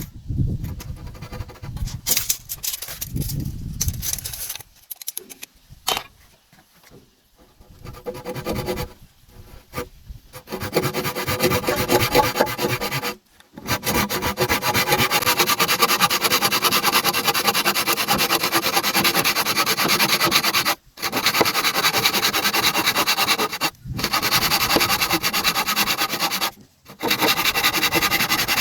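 Hand tool rubbing on wood, from about ten seconds in: long runs of rapid, even strokes broken by brief pauses. Before that, scattered short knocks.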